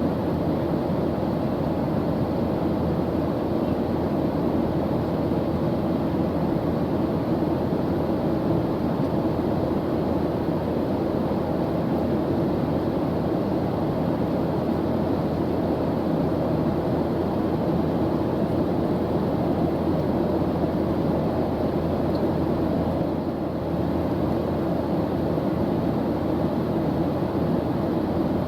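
Steady airplane engine drone heard as continuous low rumbling noise, even and unchanging throughout.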